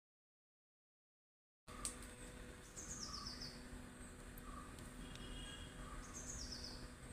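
Dead silence for nearly two seconds, then quiet outdoor ambience in which a bird gives a short descending run of high chirps, twice, about three seconds apart, over a faint steady hum.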